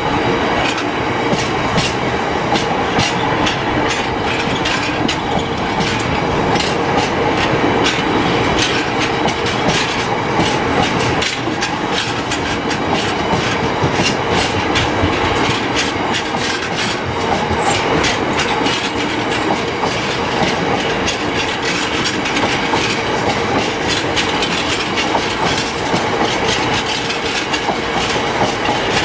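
A long rake of coal hopper wagons rolls steadily past. The wheels clatter with a rapid, continuous clickety-clack over the rail joints, above a steady rumble.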